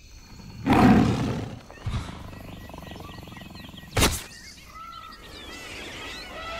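Birds chirping, with a loud low rumble about a second in and a sharp hit about four seconds in.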